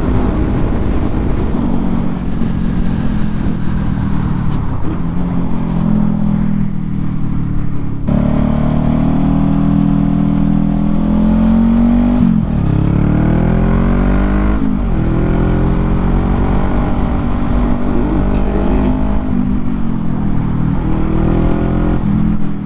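Motorcycle engine running under way. Its note holds fairly steady, then falls and climbs again twice past the middle, as with gear changes and speeding up.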